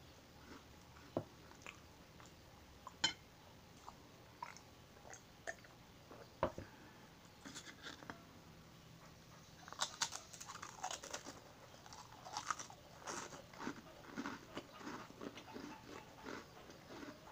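Marie biscuits being bitten and chewed close to the microphone. Scattered sharp mouth clicks come first, then dense, crisp crunching from about ten seconds in as a biscuit is chewed.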